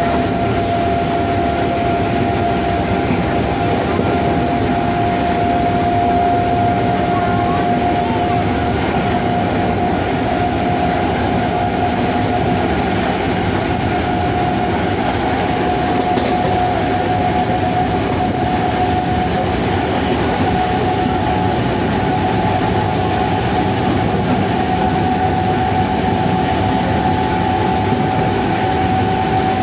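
WAP-7 electric locomotive's three-phase traction motors running under power: a steady whine that creeps slowly up in pitch, over the constant rumble of the moving train.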